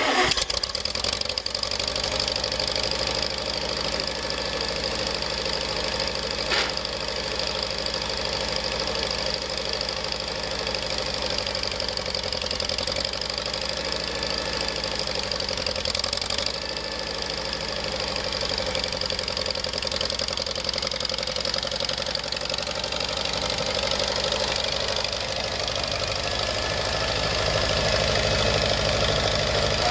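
Farmall 230 tractor's four-cylinder gasoline engine running steadily.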